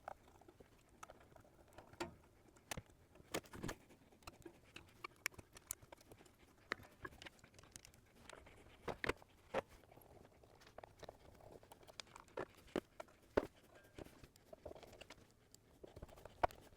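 Faint, scattered clicks and taps of hands and small tools working on a guitar's hex pickup, taking it out of its mounting under the strings.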